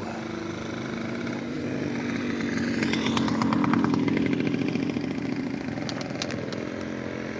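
An engine running with a fast, buzzing pulse, growing louder to a peak about four seconds in and then fading.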